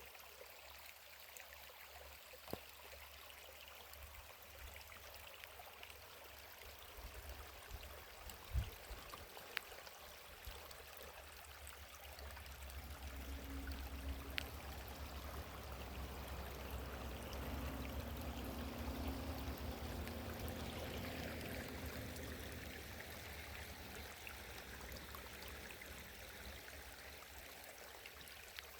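Faint running water, like a small stream, as an even hiss. A low rumble builds through the middle and fades again, and a few sharp ticks stand out, the loudest about a third of the way in.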